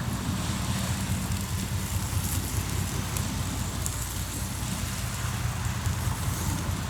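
Hardwood campfire crackling, with a few sharp pops, over a steady low rumble.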